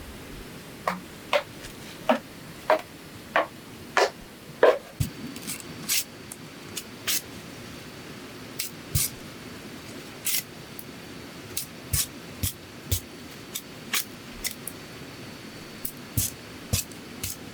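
A run of sharp knocks and clicks, irregular at about one or two a second, over a steady low hiss. The early strikes are fuller and lower; later ones are thinner and higher.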